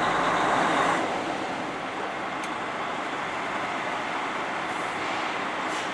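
Semi truck running with a steady, even noise, a little louder for about the first second.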